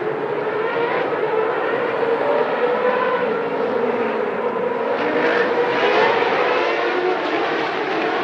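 1993 Formula One cars' engines running at high revs, several at once, their pitches rising and falling as the cars accelerate, brake and shift gear.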